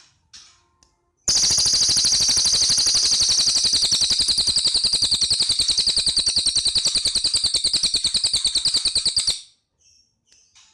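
Cililin songbird giving one long, loud, rapid rattling trill of evenly spaced notes. It starts about a second in, lasts about eight seconds and stops abruptly. Faint short chirps come before and after it.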